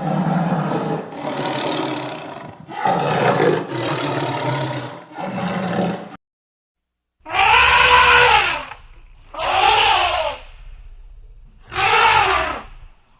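Loud animal calls: a run of five rough, growling calls, then after a short pause three long calls that rise and fall in pitch.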